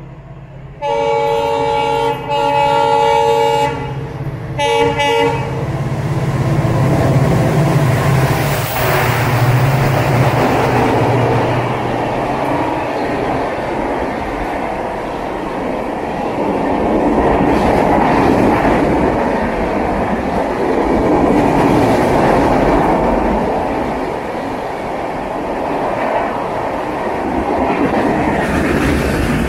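A WDP 4D diesel locomotive's horn sounds in several blasts with short breaks over the first five seconds. The locomotive then passes with a low engine rumble, followed by a long train of passenger coaches rushing past at speed, the wheels clattering over the rails.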